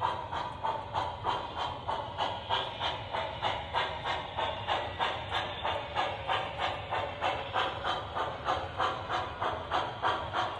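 Steam-locomotive sound system of an MTH O-gauge Michigan Central Hudson model playing steady, even steam chuffs, about three a second.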